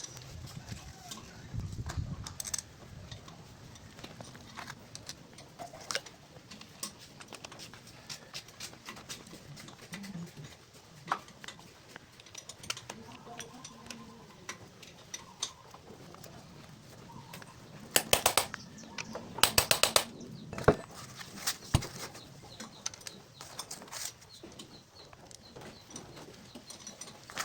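Metal clicks, taps and clinks of starter-motor parts and hand tools during reassembly of the motor, with two runs of rapid clicking a little past the middle.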